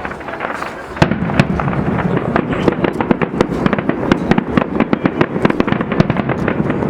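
Display fireworks going off in rapid succession: about a second in, a dense volley of sharp bangs and crackles begins and keeps going without a break.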